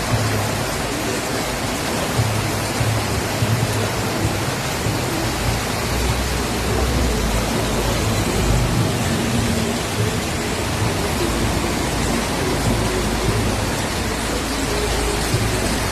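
Floodwater rushing steadily, with a low droning hum underneath.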